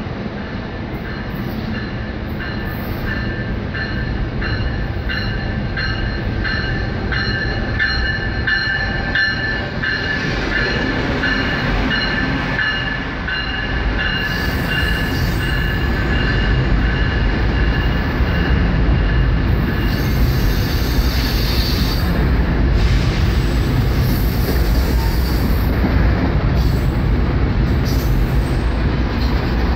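Passenger train pulling slowly into the platform, with a high-pitched metallic squeal that pulses for the first half. About halfway through, the squeal gives way to a louder, low rumble of the cars rolling past on steel rails.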